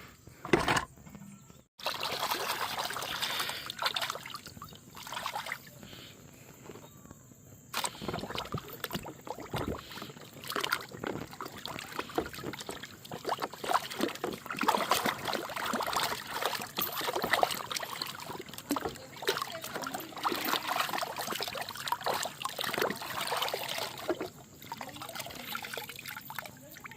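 Water pouring and splashing over plastic toy vehicles as they are washed, a steady trickling splash full of small crackles. It starts about two seconds in, dips for a moment, then runs on until it eases near the end.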